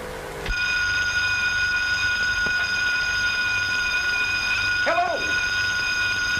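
Burglar alarm ringing continuously in a steady high tone, breaking off briefly and resuming about half a second in. A short cry rising and falling in pitch sounds about five seconds in.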